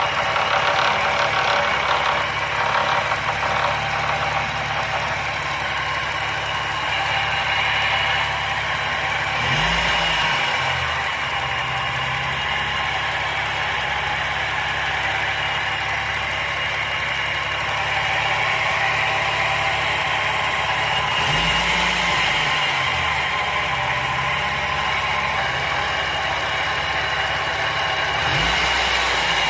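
Chevrolet Omega 3.0 engine idling hot, with a strange knocking or rattling noise that occurs only at warm idle. The owner suspects the timing chain; others have suggested a rod bearing, connecting rod, lifter or camshaft, and oil pressure has been measured as normal. The engine note briefly rises and falls three times, about ten, twenty-one and twenty-eight seconds in.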